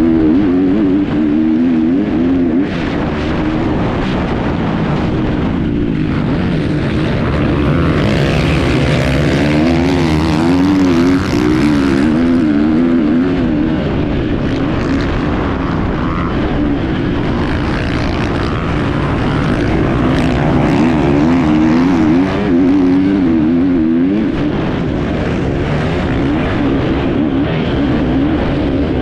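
Enduro dirt bike engine heard on board, revving up and down constantly, its pitch rising and falling every second or so as the rider works the throttle, over steady rushing noise.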